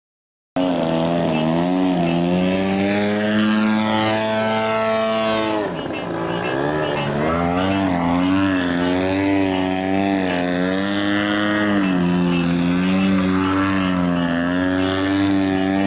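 Radio-control model airplane's engine and propeller running in flight, starting abruptly about half a second in. Its pitch falls steadily over the first few seconds, then wavers up and down as the plane manoeuvres and the throttle changes.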